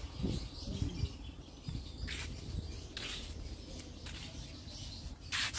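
Faint bird chirps in an open garden over a low steady rumble, with a few short bursts of rustling.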